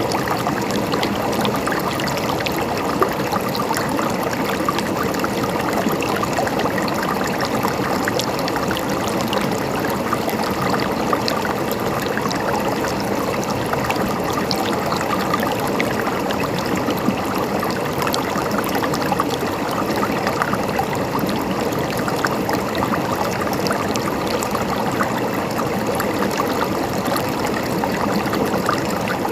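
Water of a small stream trickling and gurgling steadily.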